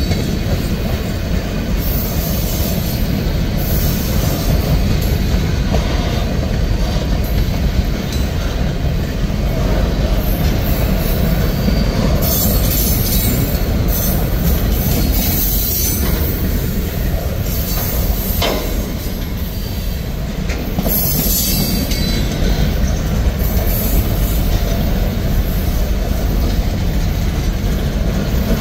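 Freight train of boxcars rolling past close by: a steady low rumble of steel wheels on rail. Short high-pitched bursts come several times, mostly through the middle.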